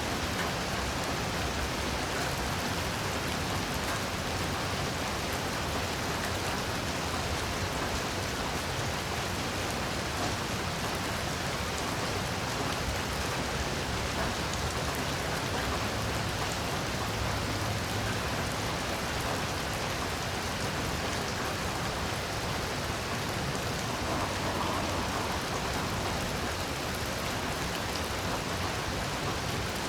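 Heavy rain falling steadily: an even, unbroken hiss of drops.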